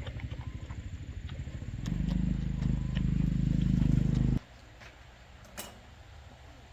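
A machine runs with a rapid low pulsing, gets louder about two seconds in, then cuts off suddenly; a few light clicks follow.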